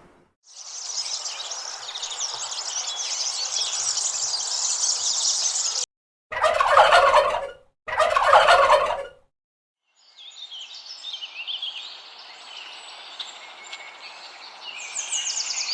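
Recorded bird sounds. First a dense chorus of small birds chattering, then two loud calls of over a second each, a short gap apart, then more birds twittering and chirping, busier near the end.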